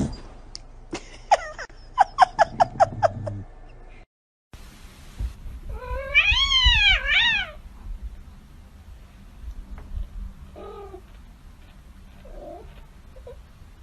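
Domestic cats calling: first a quick run of about eight short meows, then a loud drawn-out yowl that rises and falls, followed by a few fainter meows.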